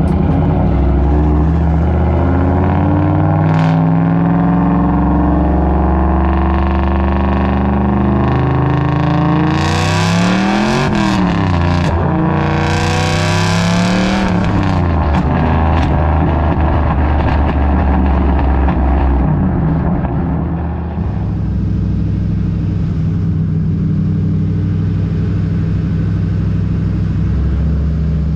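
Turbocharged 4.6-litre four-valve Ford modular V8 in a Mustang, running hard under load and changing pitch. There are quick rev rises and drops with a rushing hiss about ten to fourteen seconds in, then it settles to a steadier, slightly quieter run.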